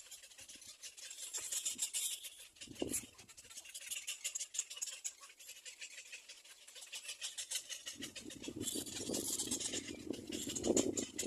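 Little black cormorant nestlings begging in the nest: a dense, raspy, crackling chatter that rises and falls, with a lower, rougher layer of sound joining about eight seconds in.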